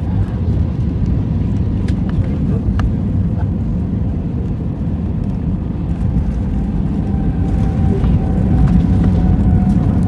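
Airbus A320 cabin noise heard from a passenger seat: a steady low rumble from the engines, with a faint thin whine coming in a little after halfway. The noise grows slightly louder near the end.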